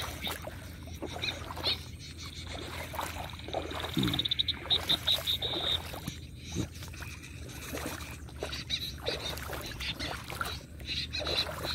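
Repeated high chirping bird calls, with a fast trill of notes about four and a half to six seconds in and a short falling note just before it, over a steady low rumble.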